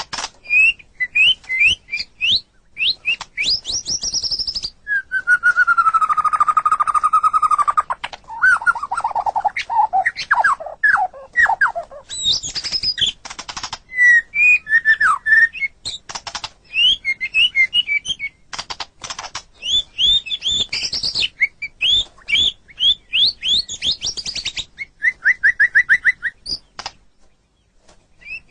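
White-rumped shama (murai batu) singing a long, varied song: quick runs of sharp whistled notes, a long falling whistle about five seconds in, and fast trills, with a short pause near the end.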